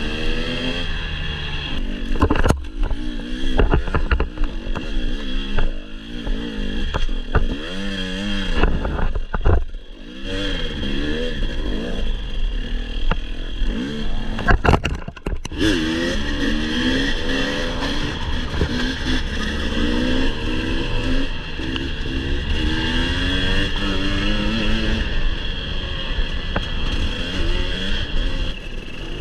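Husqvarna TE 250i two-stroke enduro motorcycle engine heard from the bike, its revs rising and falling over and over as it is ridden over rough trail. Sharp knocks and rattles from the bike over the ground, with a couple of short breaks about a third and halfway through.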